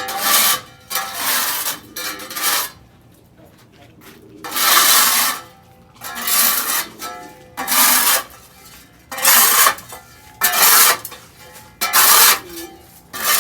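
Hand tool scraping the floor of a pigeon yard in repeated strokes, about ten in all, each under a second, with a pause of about two seconds near the middle.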